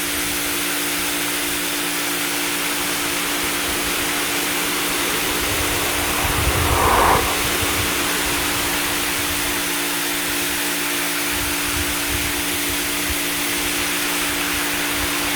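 YERYORK pressure washer running, its high-pressure water jet spraying with a steady hiss over a low motor hum, blasting algae off a bird bath. The spray gets louder briefly about seven seconds in.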